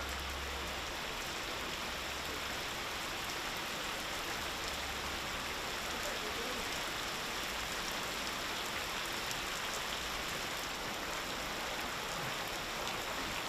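Heavy rain pouring down steadily in a hard, unbroken downpour.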